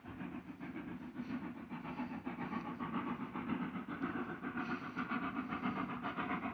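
Steam locomotive running along the line, its noise pulsing in a fast, even beat and growing slightly louder.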